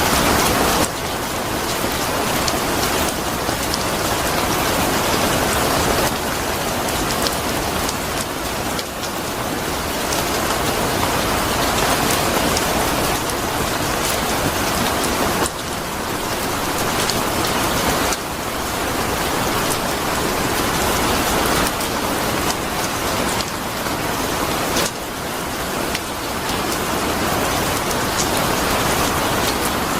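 Steady rain falling, a dense hiss with fine drop ticks scattered through it. Its level dips abruptly several times, about a second in, near the middle and again later.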